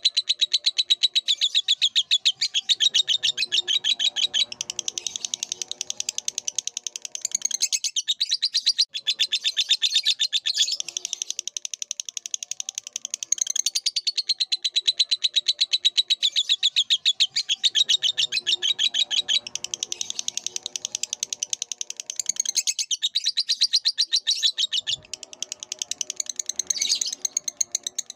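Lovebird chattering in a long, rapid, unbroken run of high chirps, with only brief breaks. A fainter, lower warbling comes and goes three times.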